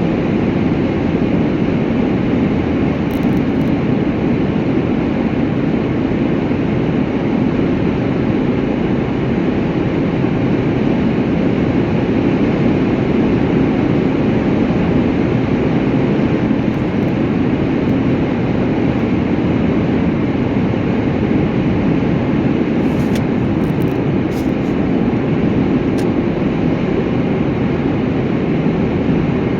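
Steady rumble of a vehicle travelling at a constant speed: road and engine noise.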